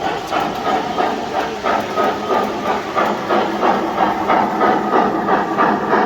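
Sound system of a model Pennsylvania K4 steam locomotive playing rhythmic steam chuffing with hiss, about three to four chuffs a second.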